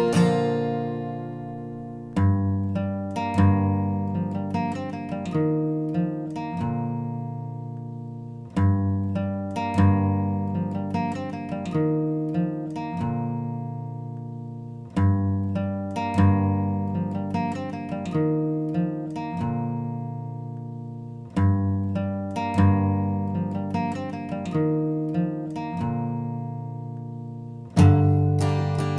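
Instrumental music on acoustic guitar, without singing: picked notes that ring and die away, with a phrase that starts again about every six seconds.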